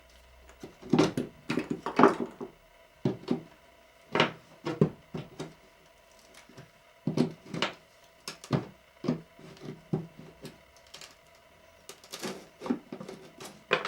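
Irregular sharp knocks and cracks of old stair-tread wood being split away around its nails, a stroke or two at a time with short pauses between.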